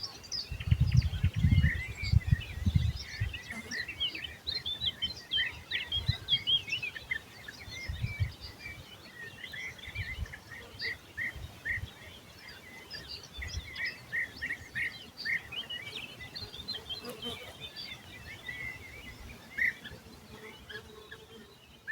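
Songbirds chirping and twittering: many short, quick calls overlapping as a chorus. Low rumbles come and go underneath, heaviest in the first few seconds.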